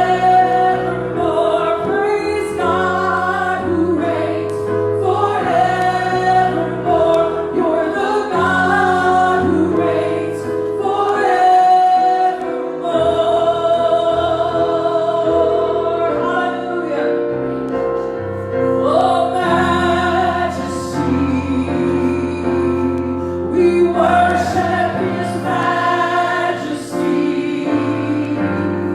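Congregational worship singing: voices in harmony held over a sustained instrumental accompaniment, changing chords every second or two.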